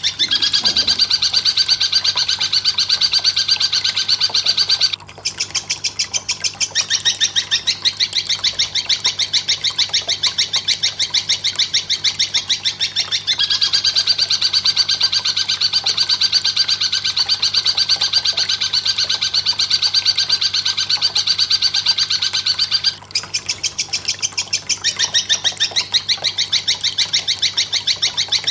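A recorded bird call: a fast, high-pitched chirping trill repeated without pause, breaking off briefly twice.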